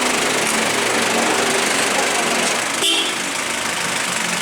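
Old Toyota Hardtop's engine running steadily, with a brief sharp high-pitched sound about three seconds in.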